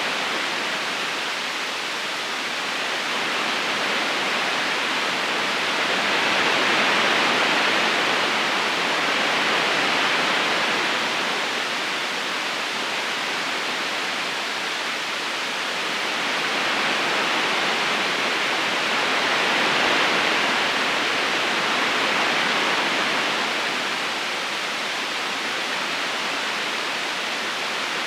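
Flowing river water running steadily over stones, a continuous rushing that rises and falls gently in slow swells.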